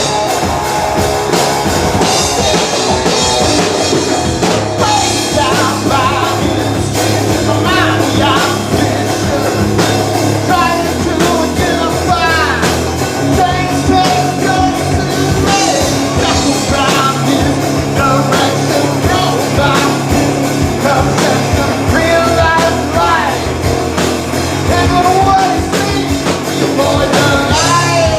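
Live rock band playing a hard rock song, with a singer over drum kit and bass.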